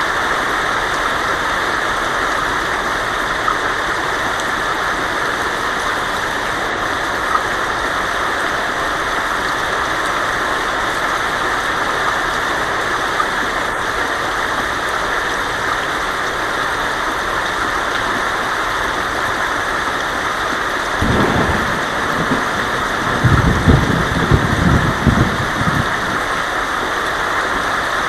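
Heavy rain on a tin roof, a steady hiss, with a rumble of thunder rolling in about three quarters of the way through and swelling for a few seconds before fading back under the rain.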